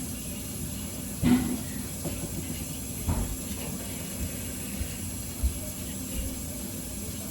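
A few separate knocks and clunks of kitchen items being handled and set down, the loudest about a second in, over a steady background hum.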